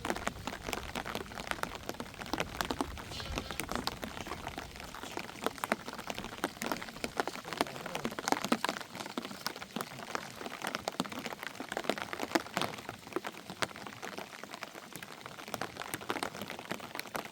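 Rain falling hard on a surface: a dense, irregular patter of sharp drops.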